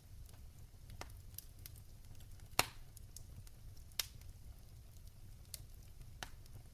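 Fire crackling in a fireplace: scattered sharp pops over a low steady rumble, the two loudest about two and a half and four seconds in.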